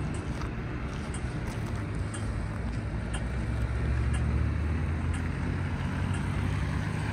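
A motor vehicle's engine running close by: a low, steady hum that swells around the middle. Faint regular clicks of footsteps sound over it.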